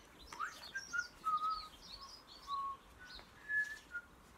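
A songbird singing a varied phrase of short clear whistled notes mixed with higher twittering, lasting about four seconds.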